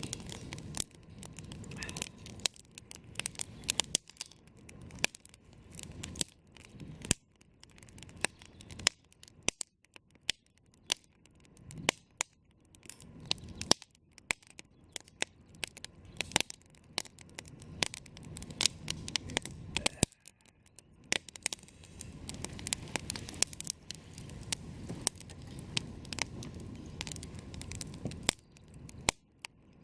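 Campfire burning, the wood crackling with many irregular sharp pops over a low rush that swells and fades.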